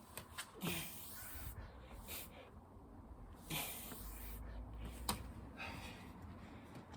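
A man breathing hard and gasping from exertion during a burpee and chin-up workout, in uneven heavy breaths, with a few sharp clicks or knocks, the loudest about five seconds in.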